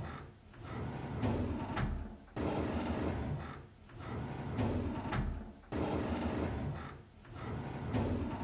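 A drawer sliding open over and over: about five scraping slides, each a second or two long with a short dip between them, some starting abruptly.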